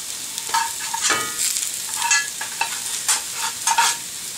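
Potatoes and onions sizzling as they fry in a skillet, with a metal utensil repeatedly scraping and clinking against a small pan as bacon is scraped out into the potatoes; some clinks ring briefly.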